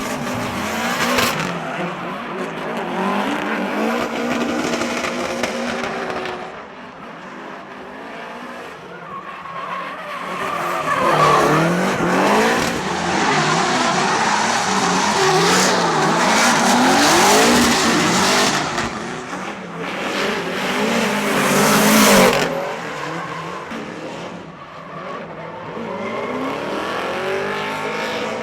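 Turbocharged drift cars sliding on track: engines revving up and down as the throttle is worked, over continuous tyre squeal and skidding. The sound swells loudest in the middle as the cars pass close, and is quieter before and after.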